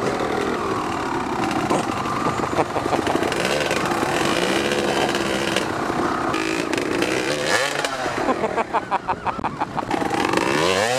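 Dirt bike engine being ridden on an off-road track, its pitch rising and falling as the throttle is worked. From about eight seconds in it drops to a lower, quickly pulsing note.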